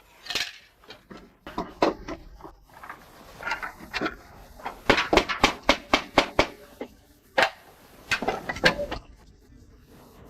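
Slate hammer driving nails to fix slate slabs onto a wooden board: a series of sharp taps, with a quick run of about five or six blows a second about halfway through.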